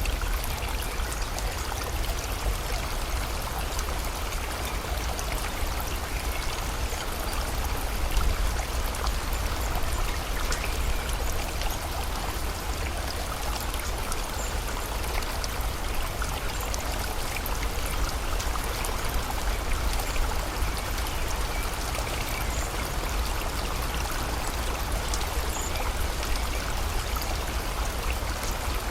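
Steady rush of rain and a flowing river, with a dense patter of drops over a low, constant rumble.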